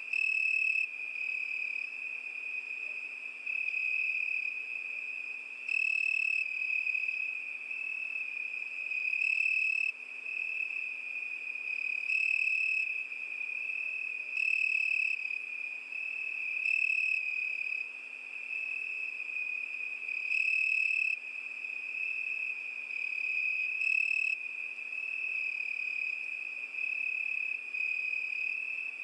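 Cricket singing: a continuous high-pitched trill on one steady note that swells louder for about a second every few seconds.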